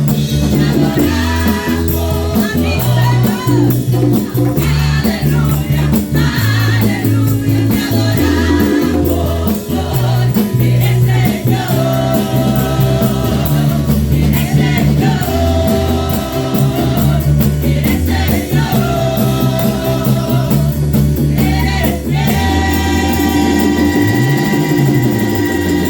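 Live gospel worship music: a band with bass, keyboard and percussion, with singing over it.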